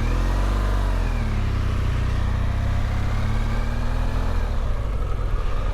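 BMW GS motorcycle engine pulling away, its revs rising and dropping twice over a steady low engine drone.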